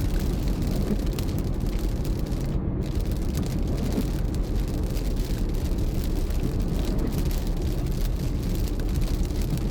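Car driving steadily, with engine and tyre noise heard from inside the cabin.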